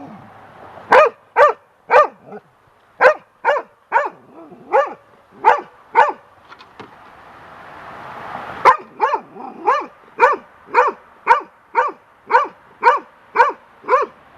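Young golden retriever barking repeatedly at a feather blowing about, short sharp barks about two a second, with a break of a couple of seconds a little past the middle before the barking picks up again.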